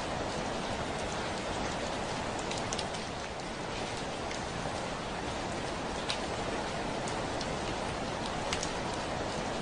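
Steady heavy rain with a dense even hiss, and now and then a sharper drop striking a window pane.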